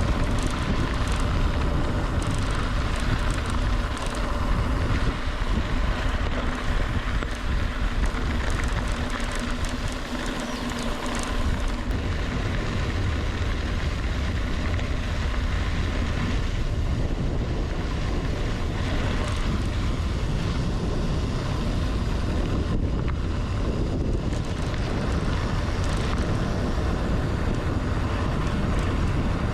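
Strong wind buffeting the microphone of a camera on a moving mountain bike: a steady, rushing low rumble.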